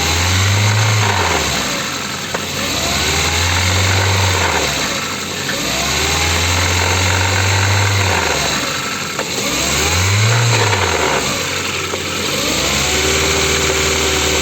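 Ford car engine revved four times, each rev rising and falling over one to two seconds, then settling to a steady idle near the end. The owner says the engine is knocking.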